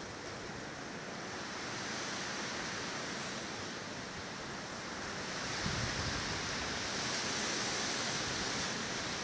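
Strong wind rushing through trees, a steady surf-like roar that swells somewhat louder past halfway.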